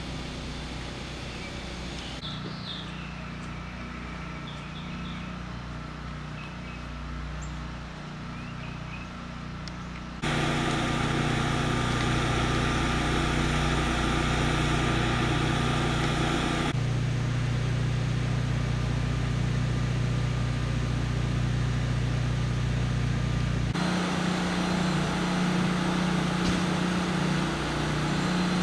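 Steady low engine hum, like idling vehicles or machinery, with a few faint bird chirps early on. The hum jumps abruptly louder about a third of the way in and shifts in pitch twice more, as at cuts between shots.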